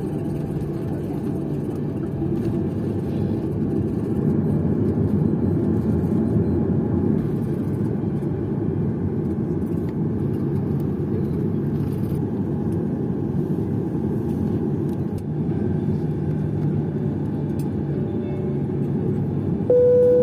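Steady low rumble of a Boeing 737-800's cabin while the airliner taxis after landing. Near the end a single clear chime tone sounds briefly, the loudest moment.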